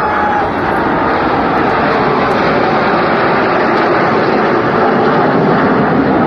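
Fixed-wing aircraft flying past, its engines making a steady, dense rushing noise that slowly grows louder.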